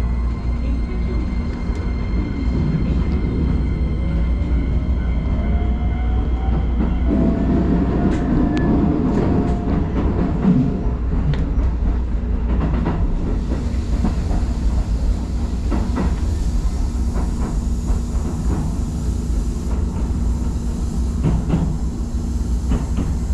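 Keisei Line electric train pulling away and gathering speed: a rising motor whine in the first several seconds, then running along the track with repeated rail-joint clicks and a growing rushing noise.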